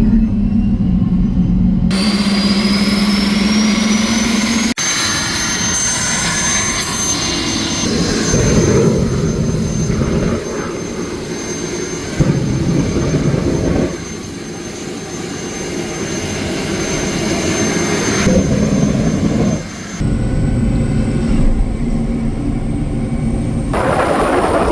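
Boeing T50 turboshaft engine powering a Camaro, running with a loud jet-like rush and a high turbine whine. The whine rises in pitch a few seconds in and then holds steady, and the sound changes abruptly several times.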